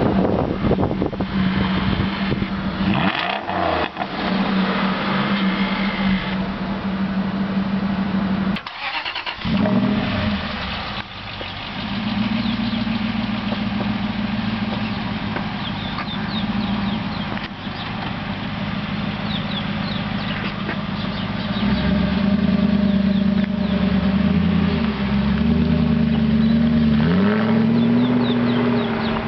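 A car engine idling steadily, cutting out briefly just before ten seconds in, with a few short rises and falls in revs near the end.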